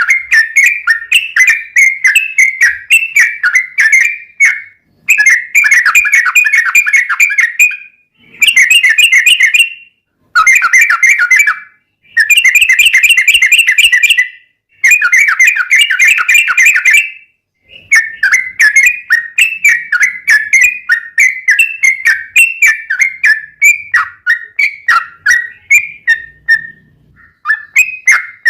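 Yellow-vented bulbul (trucuk) singing fast, whistled notes repeated several times a second. Through the middle it delivers five dense, rapid phrases with short pauses between them, then returns to a steady run of quick repeated chirps.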